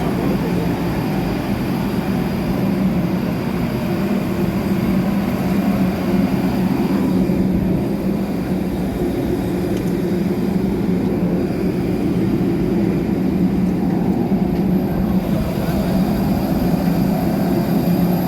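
Steady droning hum inside an Airbus A320neo's cabin, with constant low hum tones and no change in pitch.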